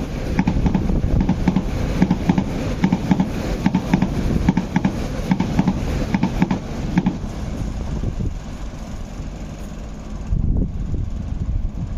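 MTR East Rail Line R-train, a 9-car electric multiple unit, passing close at speed. Its wheels beat on the rails in a rhythmic clatter, about two to three clacks a second, over a low rumble; after about seven seconds, once the train has gone by, this gives way to a quieter steady rush.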